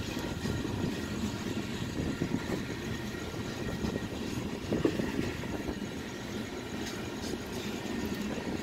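Coal cars of a freight train rolling past: a steady low rumble of steel wheels on rail, with a couple of sharper clicks.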